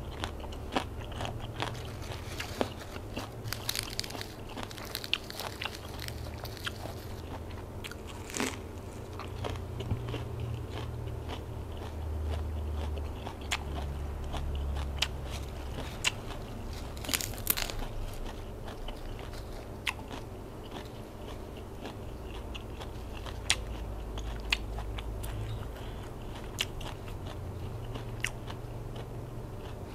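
Close-miked chewing and biting: irregular crisp crunches as a person eats a spicy Isan salad of silkworm pupae and green mango with fresh leaves and lettuce.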